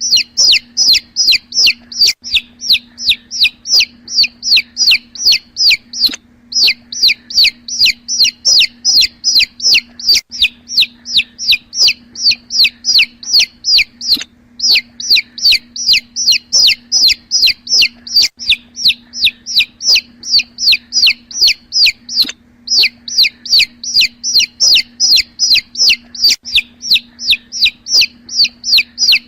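Young chicks peeping loudly and without let-up: rapid high peeps that fall in pitch, about three a second, in runs broken by short pauses every eight seconds or so. A faint steady low hum lies underneath.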